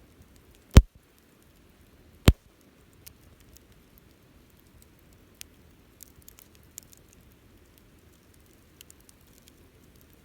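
Wood fire crackling, with two loud sharp pops about a second and a half apart near the start, then scattered faint crackles.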